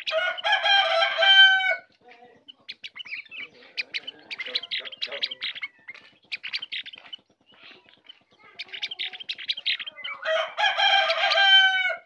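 Birdsong: bursts of rapid chirping and chattering, with a loud drawn-out call at the start and again near the end, each sliding slightly down in pitch.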